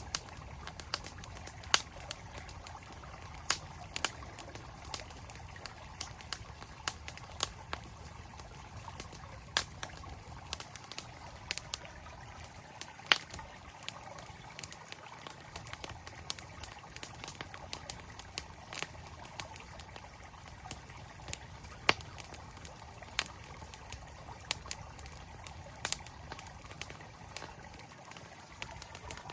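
Campfire crackling, with irregular sharp pops and snaps, some much louder than others, over the steady rush of a flowing mountain stream.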